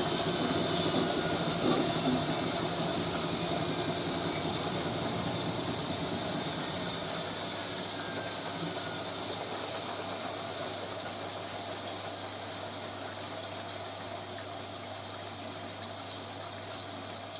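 Hoover A3060 washing machine's drain pump running steadily, humming as it pumps out the rinse water before the second-rinse fill, the sound slowly fading.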